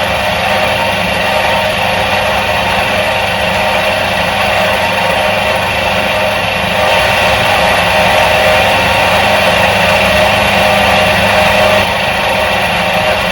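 Electric motor of a 1977 Soviet washing machine running with a continuous steady hum, growing a little louder between about seven and twelve seconds in.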